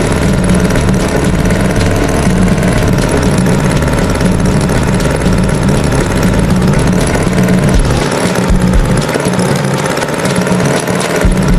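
Tractor engine sound effect running steadily and loudly.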